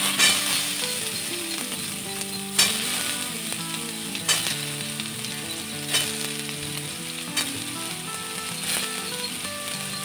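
Soya chunks frying in hot oil in a metal kadai: a steady sizzle, with a steel spatula striking and scraping the pan about every second and a half.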